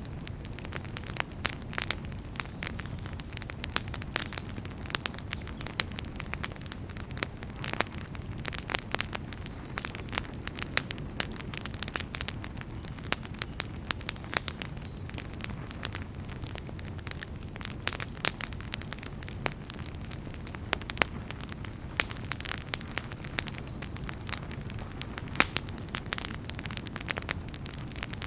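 Wood fire burning in a fireplace: a steady low rumble of flame with dense, irregular crackles and pops throughout.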